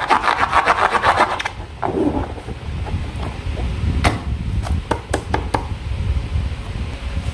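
Slime being worked by hand, a fast run of crackling clicks for about the first second and a half, then scattered single clicks and pops.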